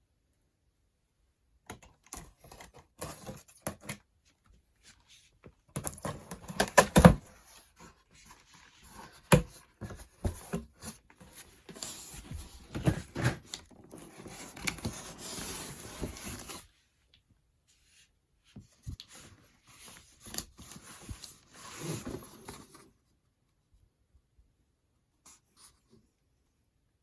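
Packaging being handled and opened: irregular rustling and tearing with sharp knocks, in bursts with pauses.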